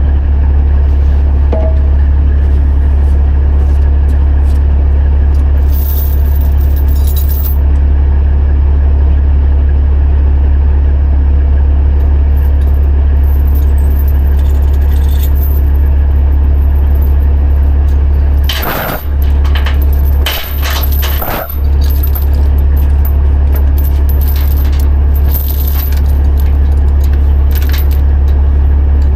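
A heavy diesel engine idling steadily under loud metal clinking and rattling of tie-down chains being handled to secure a load on a lowboy trailer. A burst of sharper chain clanks comes a little past halfway.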